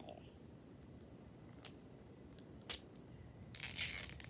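Plastic toy packaging being handled and opened: a few light clicks and taps, then a burst of crinkling near the end.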